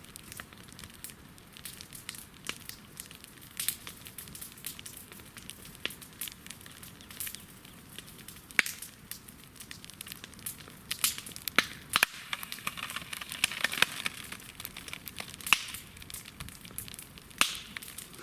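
A television set burning on a tyre fire: steady crackling with many sharp pops and clicks at irregular intervals, which the onlooker takes for the set's tubes and capacitors popping in the heat.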